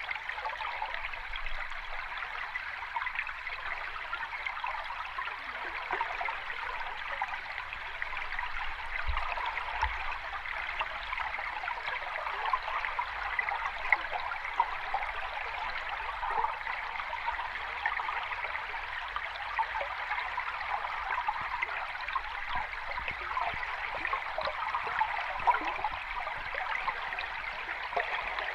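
Sea water lapping at the shore: a steady trickling and splashing, with no single big wave breaking.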